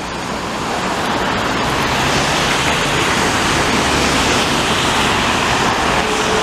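Steady, loud wash of highway traffic noise mixed with the jet noise of an Airbus A330 airliner passing low on landing approach, swelling over the first second or so.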